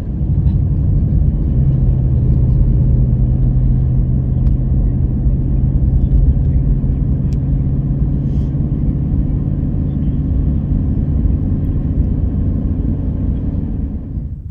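Car driving, with a steady low engine and road drone and a held low hum through most of it.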